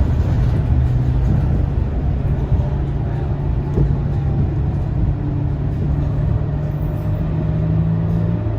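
Scania K230UB city bus's five-cylinder diesel engine running steadily under way, with its drone holding an even pitch.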